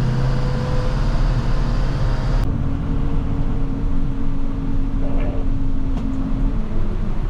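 A plow truck's engine running steadily with road noise, heard from inside the cab. About two and a half seconds in the sound changes abruptly and loses its hiss, and a different steady drone carries on.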